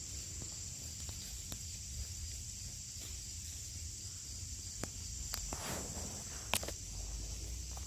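Outdoor ambience: a steady high-pitched insect drone like crickets, over a low rumble, with a few scattered light clicks and taps, the sharpest about six and a half seconds in, typical of footsteps.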